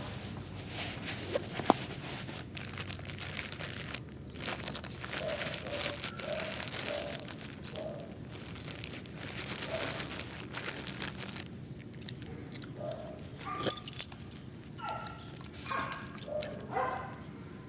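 A small puppy making short yips and whines, mixed with crinkling, rustling handling noise and one sharp click a little past the middle.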